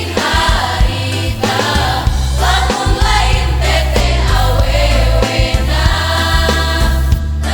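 Mixed choir singing a Sundanese regional song in several parts over accompaniment with a heavy, steady bass line.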